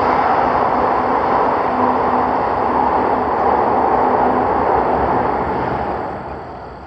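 Electric train running past a level crossing: a loud, steady rushing rumble that fades away over the last two seconds or so as the train moves off.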